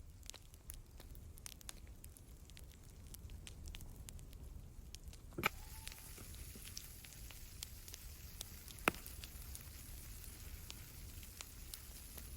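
Campfire crackling faintly with scattered small pops, and two louder knocks, about five and a half and nine seconds in.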